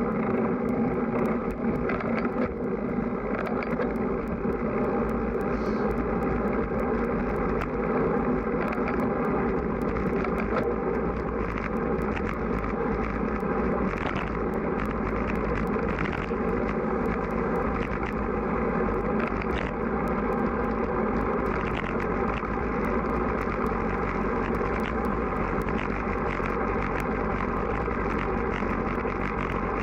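Steady noise from a road bike being ridden in strong wind: wind on the microphone and road rumble, with frequent small clicks.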